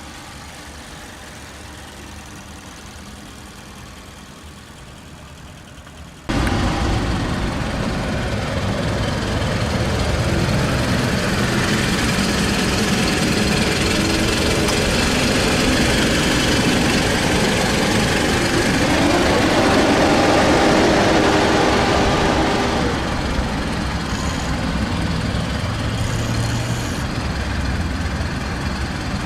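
Mazda 6's 2.5-litre inline-four engine running: a quiet idle, then a sudden jump to much louder engine noise about six seconds in. The pitch rises for a few seconds about two-thirds of the way through, then falls back.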